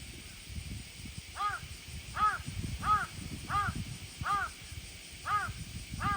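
A crow cawing in a run of about seven evenly spaced caws, a little under a second apart, starting about a second and a half in. Low wind rumble runs underneath.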